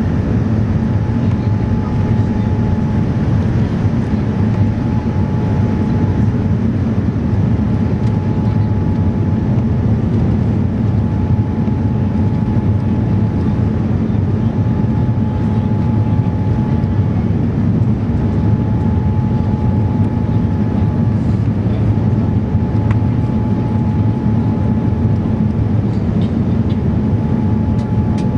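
Steady cabin noise inside a Boeing 787-9 airliner in flight: an even low rumble of airflow and engines, with a thin tone that comes and goes.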